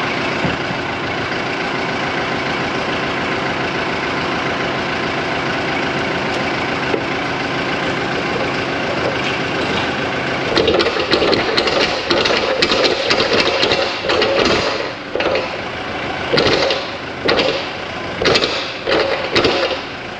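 Engine of a snow-plow vehicle running steadily, then from about halfway in surging louder and unevenly with knocks and scraping as the repaired plow goes back to work.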